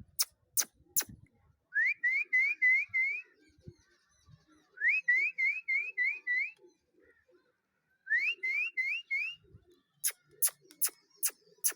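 A person whistling to pigeons: three runs of quick rising whistle notes, five or six to a run. A few sharp clicks come just before the first run, and a rapid string of them near the end.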